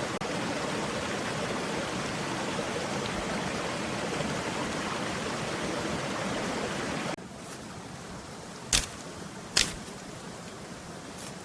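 Steady rushing of a forest stream, which cuts off abruptly about seven seconds in to a quieter steady hiss. Two sharp knocks then sound about a second apart, and a fainter one near the end.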